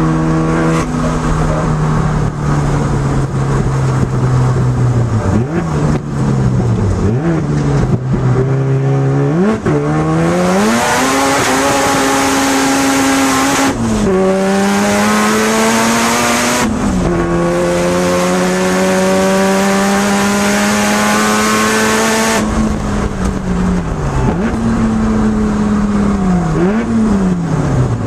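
Turbocharged 13B two-rotor rotary engine of a Mazda RX-7 FC3S heard from inside the cabin. It slows off-throttle for the first several seconds, then pulls hard through two upshifts about 14 and 17 seconds in and holds a long climb with a loud rushing noise at full throttle. It then lifts off, with quick blips as it drops through the gears near the end.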